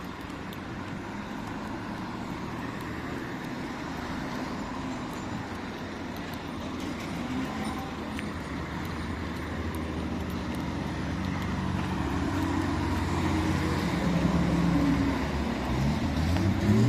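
Motor vehicle engines running in street traffic, growing gradually louder. In the last few seconds a close engine's pitch sweeps up and down as it revs and passes.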